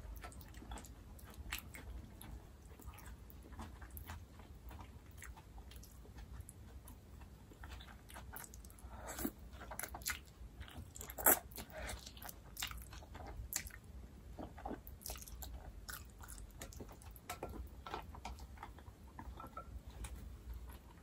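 Eating sounds of black-bean-sauce noodles (vegan jajangmyeon): wet chewing and mouth smacks, with short clicks, taken up with wooden chopsticks. The sounds are loudest and thickest around the middle, as a big mouthful of noodles goes in.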